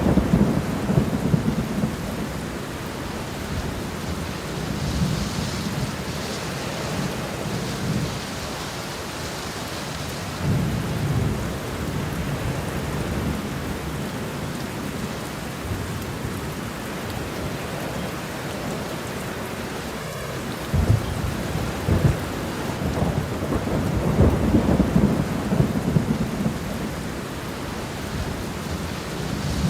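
Steady rain falling, with low thunder rumbling at intervals: near the start, about a third of the way in, and in a longer roll in the last third.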